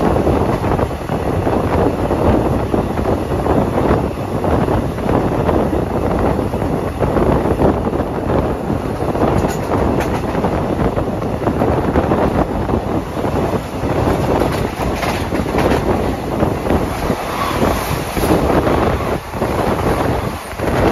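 Express train running at speed, heard from on board: a steady rumble of wheels on the track under wind buffeting the microphone, with a few sharp clicks.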